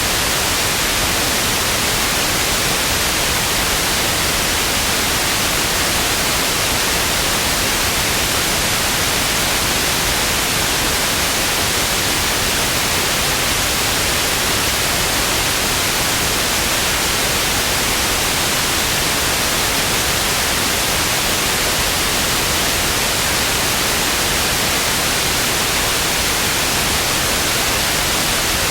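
Television static: a steady, even hiss of white noise, brightest in the upper range, with no change throughout.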